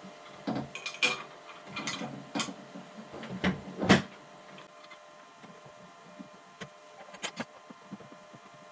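Clattering knocks and clicks as a snowblower's discharge chute is laid in place and its bolts are handled for bolting it down. The loudest knock comes near the middle, followed by a few lighter ticks.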